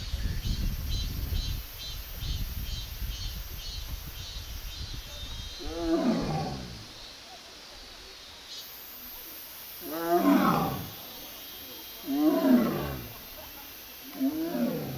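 Siberian tiger giving four separate 'a-ung' calls, each one falling in pitch: a contact call made while searching for a companion. A low, noisy rumble fills the first few seconds.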